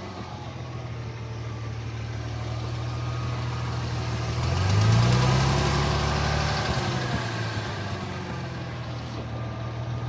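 2000 Ford Mustang's 3.8-litre V6 idling, revved once about halfway through and settling back to idle. It has a tap that the owner thinks is probably a lifter, and he suspects it is also misfiring.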